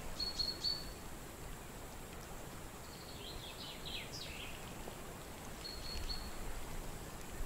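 Small birds calling over a faint steady background: short high whistles near the start and again about six seconds in, and a quick run of falling chirps about three to four seconds in.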